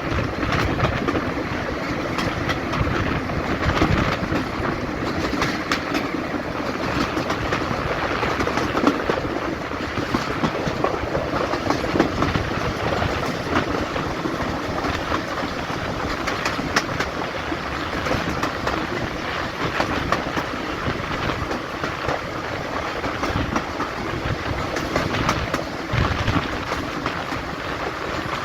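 Diesel-hauled heritage train running steadily along the line, with frequent clicks of the wheels over rail joints.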